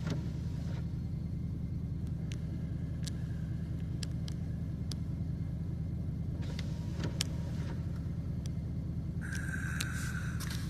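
Steady low hum of a truck's engine running, heard from inside the cab, with scattered light clicks and a couple of brief noisy swells.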